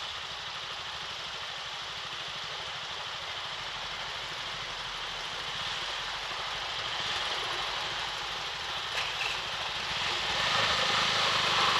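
Motorcycle on the move: a steady rush of wind over the microphone mixed with engine and road noise, growing louder over the last few seconds.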